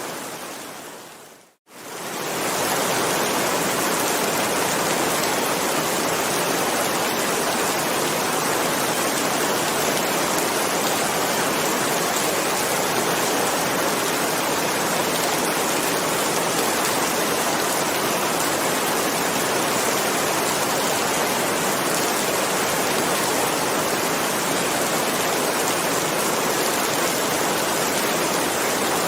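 Steady rain noise that fades down to a moment of silence about one and a half seconds in, then fades straight back up and continues evenly.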